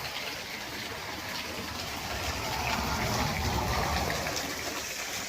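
Small waterfall splashing and rushing steadily, swelling slightly in the middle.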